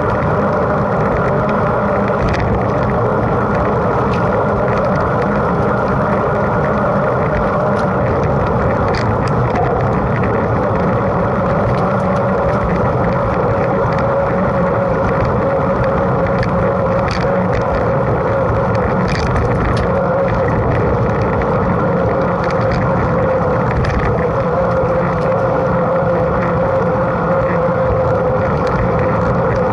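Mountain bike riding at speed on a forest road: a steady loud rush of wind on the mount and tyre noise, with a faint steady hum and scattered small ticks and clicks from the bike and road.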